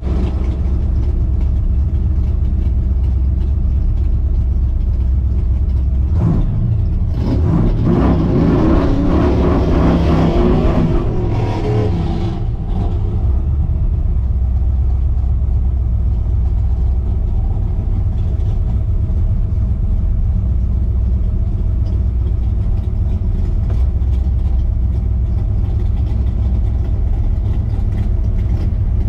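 Supercharged Chevrolet small-block V8 of a 1960 Corvette idling steadily, heard from inside the cabin. About six seconds in, louder engine noise with a wavering pitch swells for around six seconds, then the steady idle returns.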